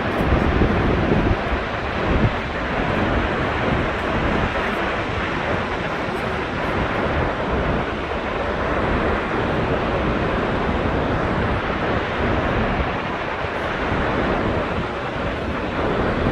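Steady rush of the Vøringsfossen waterfall's falling water, with wind buffeting the microphone.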